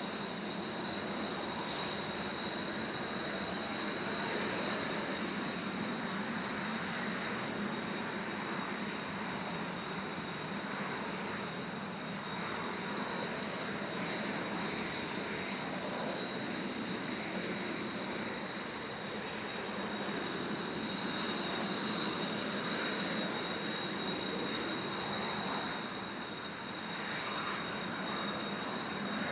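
Kawasaki T-4 jet trainers' turbofan engines running on the ground, a high whine that rises about a fifth of the way in, holds, and falls back a little past the middle, then starts to rise again near the end. Heavy wind noise on the microphone runs under it.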